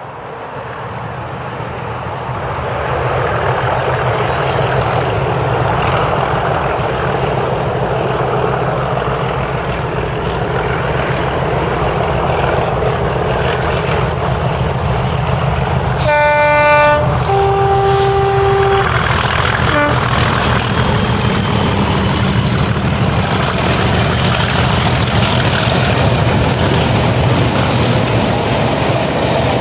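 Double-headed Class 37 diesel locomotives working past at close range, their engines running heavily and growing louder over the first few seconds, then a two-tone horn about 16 seconds in: one note, then a second, longer one.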